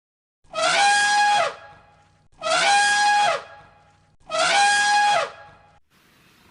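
A loud, brassy animal call repeated three times, each about a second long and ending with a drop in pitch, the three calls alike as if the same recording is looped.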